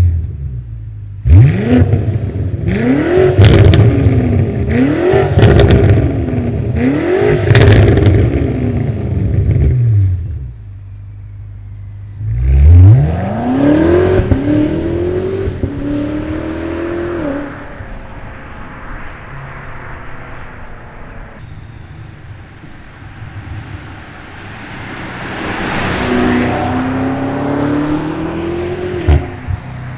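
BMW M5 twin-turbo V8 through an aftermarket catback exhaust, accelerating hard. The revs climb and drop sharply several times as it shifts up. A second hard pull starts about twelve seconds in and fades away. A quieter pass-by with the engine note rising comes near the end.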